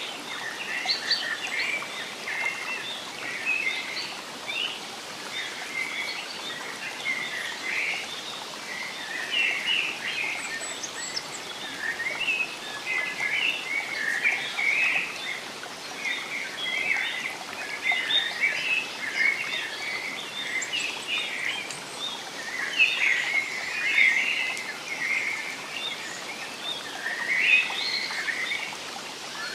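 Several songbirds chirping and singing continuously over a soft, steady background hiss.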